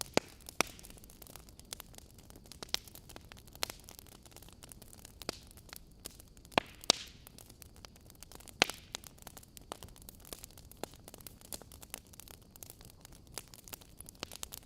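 Log fire in a fireplace crackling: sharp, irregular pops and snaps over a soft steady hiss, with a cluster of the loudest pops about halfway through.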